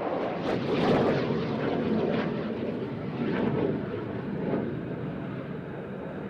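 Jet aircraft flying past, a noisy rumble that is loudest about a second in and then rises and falls.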